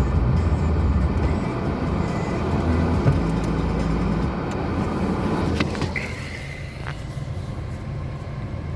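Lada Granta car running with a steady low rumble that dies away about four and a half seconds in, followed by a few sharp clicks and a brief high beep.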